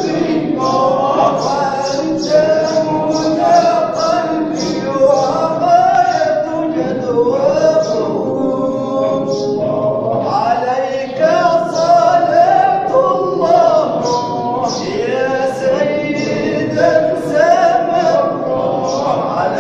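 Voices chanting and singing together without instruments at a Sufi dhikr (hadra), with a steady rhythmic pulse running through the chant.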